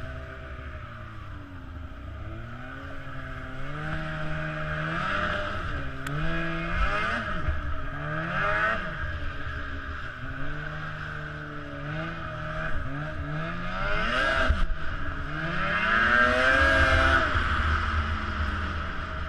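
An off-road vehicle engine revving up and down over and over, its pitch rising and falling every second or two, over a steady rushing noise. It is loudest a little past the middle and near the end.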